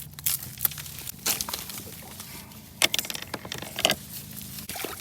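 Dry reeds crackling and rustling as they are pushed through and handled, with a handful of sharp cracks at irregular moments.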